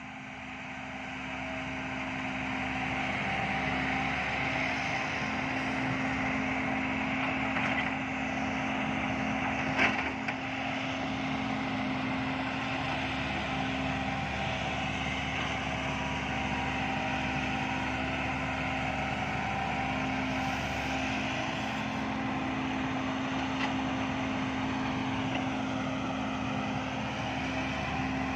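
Heavy diesel engine of a dump truck or excavator running steadily, growing louder over the first few seconds, with a single short knock about ten seconds in and a brief dip in pitch near the end.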